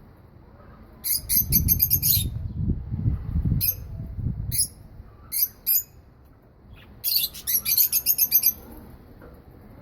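Pet lovebirds and budgerigars chirping: a rapid chattering burst about a second in and another around seven seconds, with a few single chirps between. A low rumble runs under the first burst.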